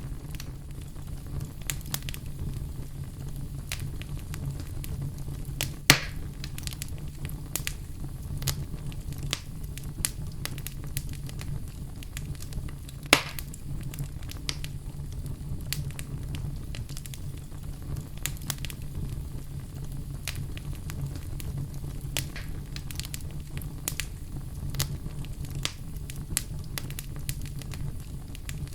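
Wood fire crackling in a fireplace: a steady low rumble with many small crackles, and two sharper pops about six and thirteen seconds in.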